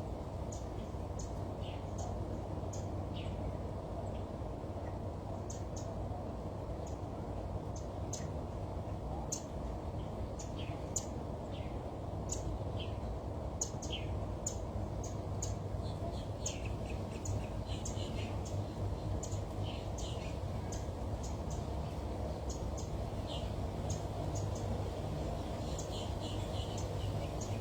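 Many birds chirping, with short high calls scattered irregularly throughout over a steady low hum.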